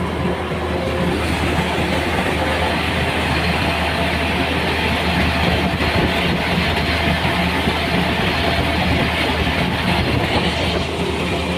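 An engine running steadily with a constant rushing, rattling noise over it, most likely a rice-harvesting machine at work.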